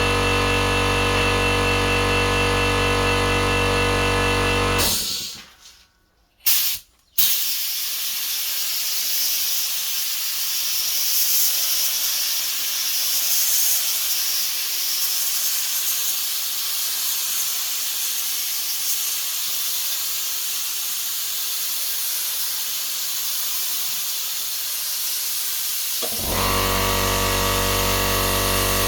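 Background music for about five seconds, then a steady high-pitched hiss of spraying that runs for about twenty seconds before the music comes back.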